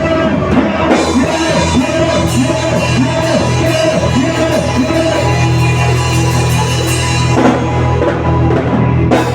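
Loud live worship music with a drum kit and a steady bass line, and voices singing.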